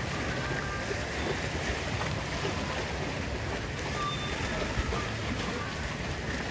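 Steady rushing ambience of wind and sea water, with a few faint short high tones.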